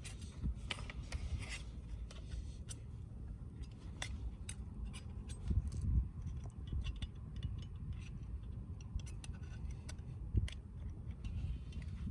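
Wood fire crackling with scattered sharp pops, over a low rumble of wind on the microphone.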